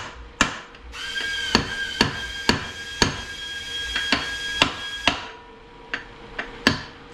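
Repeated hammer taps, about two a second, on Ford AOD transmission parts being worked into place during reassembly. Through the middle of the taps a struck metal part rings with a steady high tone, which fades after about five seconds.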